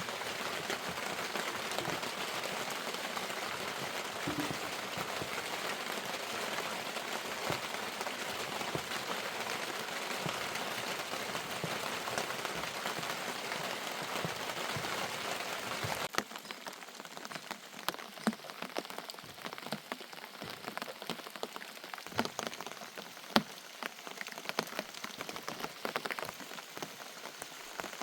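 Rain falling steadily in a dense hiss; about halfway through it changes abruptly to lighter rain with separate drops tapping, one louder tap near the end.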